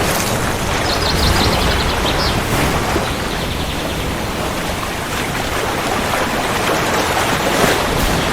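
Steady rain falling hard, with a continuous low rumble underneath. Two short runs of faint, rapid high ticks come about one and three seconds in.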